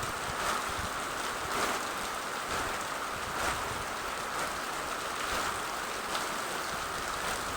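Steady rain falling: an even hiss, with a few slightly louder drop strikes now and then.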